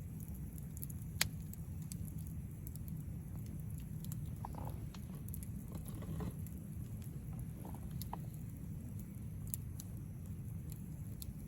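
Wood campfire crackling, with scattered small pops and one sharp pop about a second in, over a steady low rumble.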